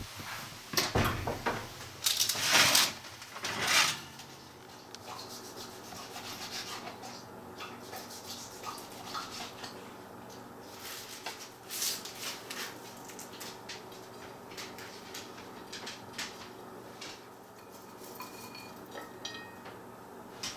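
Kitchen utensils clattering and scraping against dishes and cookware, louder a few times in the first four seconds, then light scattered taps and clicks.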